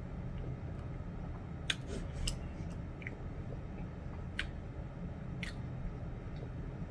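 Close-up chewing of chicken pot pie, with four or five sharp wet mouth clicks and smacks, the loudest just under two seconds in, over a steady low hum.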